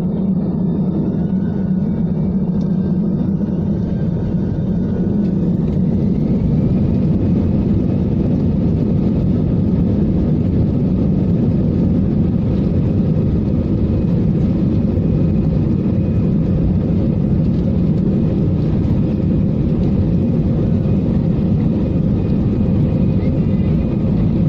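Airbus A320-214's CFM56 jet engines heard from inside the cabin, a steady rumble and hiss. A few seconds in, a whine rises in pitch and the noise grows louder and brighter as the engines spool up, then holds steady.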